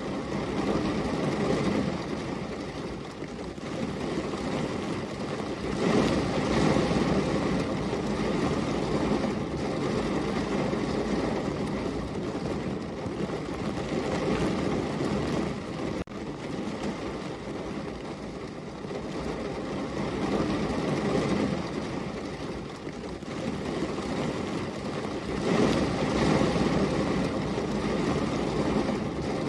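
Heavy rain falling as a steady, deep rushing noise that swells and eases every few seconds.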